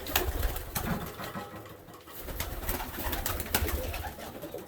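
Domestic pigeons cooing inside a loft, with scattered sharp clicks and rustles and a low rumble in two stretches.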